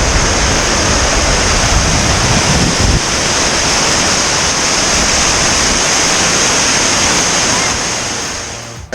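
A waterfall rushing loudly and steadily, with wind buffeting the microphone in the first three seconds. The rush fades away near the end.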